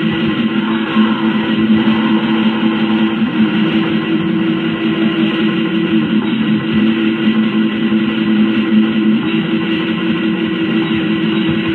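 Black metal: distorted electric guitars holding chords in a dense, steady wall of sound.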